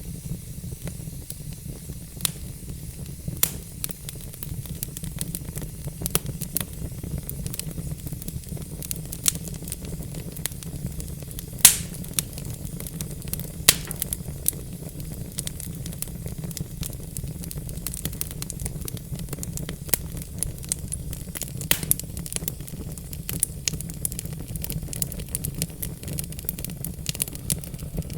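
Log fire in a fireplace crackling, with irregular sharp pops over a steady low rumble and hiss. The two loudest pops come about twelve and fourteen seconds in.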